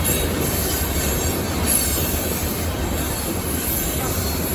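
Loaded coal train cars rolling past with a steady rumble of steel wheels on rail.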